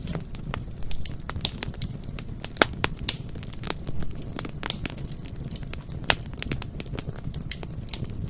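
Bonfire burning: irregular sharp crackles and pops from the burning wood over a steady low rumble of the flames.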